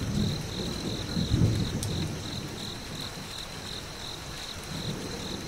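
Crickets chirping in a steady pulsing rhythm, about three chirps a second, over a low rumble that dies away early on.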